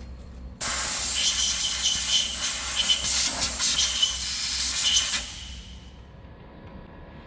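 Compressed-air blow gun hissing in one long blast of about four and a half seconds. It starts abruptly and tails off quickly at the end.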